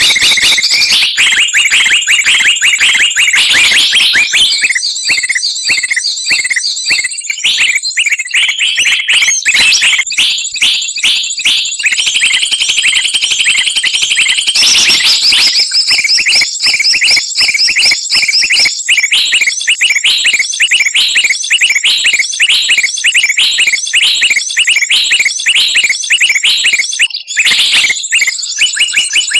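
A dense, loud chorus of small songbirds chattering with rapid high-pitched chirps and trills, several calling over one another without a break: a bird-lure (pikat) recording played to draw wild birds down.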